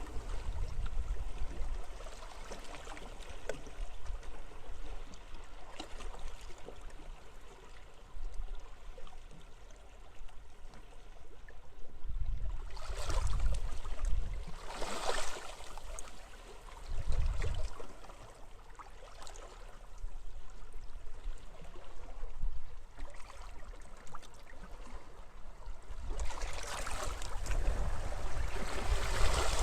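Sea waves washing onto a beach in the wind, with a low wind rumble throughout. The surf swells several times, around the middle and again louder near the end.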